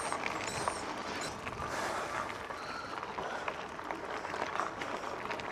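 Riding noise of a bicycle: a steady rushing hiss of wind and tyres with scattered light ticks and clicks, and a few high bird chirps in the first second.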